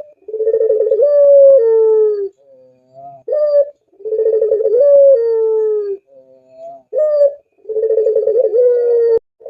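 Puter pelung, a domestic Barbary dove of the long-voiced type, cooing: three long coos, each opening with a quick rolling warble and then a drawn-out note that rises and falls. Each coo comes after a short single note, and they repeat about every three seconds.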